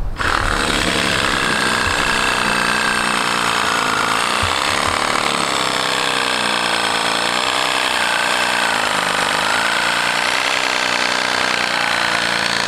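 A motor running steadily, its pitch wavering slowly up and down.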